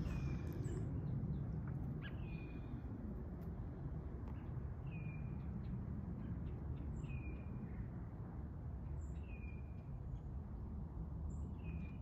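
A bird calling over and over: a short, high, downward-slurred note about six times, roughly every two seconds, over a steady low background rumble.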